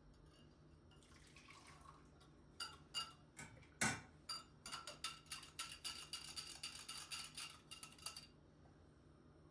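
Cutlery clinking against glassware or dishes: a few separate clinks, then a quick run of ringing clinks lasting about three and a half seconds before it stops.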